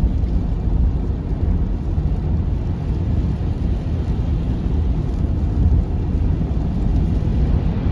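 Steady road noise inside a moving car: a low rumble of tyres and engine on a snowy highway, with a faint hiss above it.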